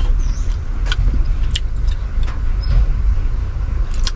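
Low, steady rumble inside a car cabin, with a few short, sharp clicks spread through it, about 1, 1.6, 2.3 and 4 seconds in.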